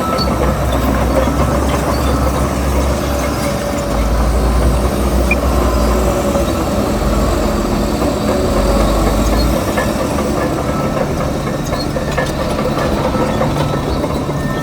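Heavy diesel earthmoving machinery running and working, a steady mechanical din with a deep low rumble that drops away about two-thirds of the way through.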